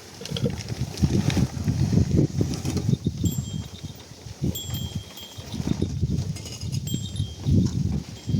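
A few short, high, bell-like chimes ring out at intervals over a gusty low rumble of wind on the microphone.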